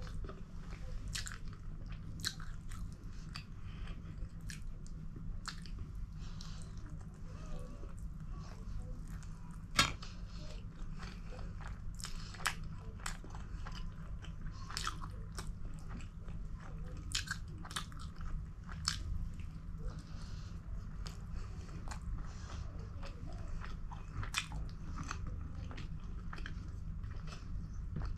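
Close-miked chewing and mouth clicks of a person eating pork momos (steamed dumplings) and paratha by hand, with irregular wet clicks and one sharper click about ten seconds in. A steady low hum runs underneath.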